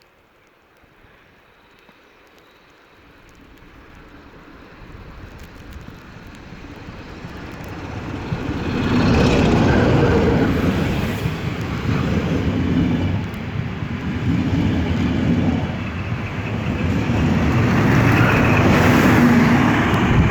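A train approaching and passing close by. It grows steadily louder over about nine seconds, then runs loud with a dense rumble. A steady engine hum comes in near the end.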